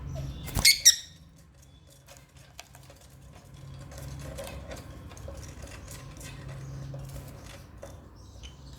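African lovebirds: two loud, shrill chirps close together about a second in, then scattered soft clicks and taps over a low background hum.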